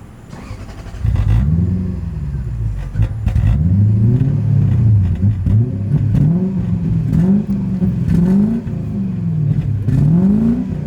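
Lexus GS430's 4.3-litre V8 revved again and again from about a second in, through an exhaust with its mufflers cut off. The pitch climbs and drops in quick repeated blips over a steady low idle.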